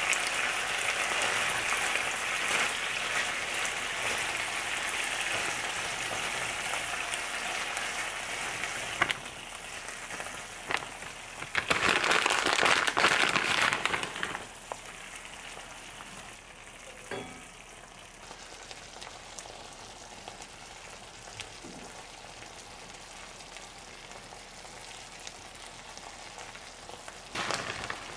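Chicken, noodles and spicy sauce sizzling in a frying pan, a steady frying hiss. It is louder at first, surges for a couple of seconds around the middle, then settles to a quieter sizzle, with a few light knocks.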